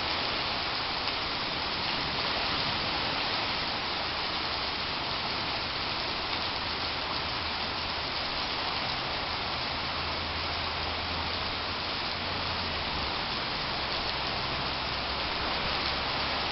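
Steady rain falling on leafy garden trees, plants and ground, an even hiss without a break.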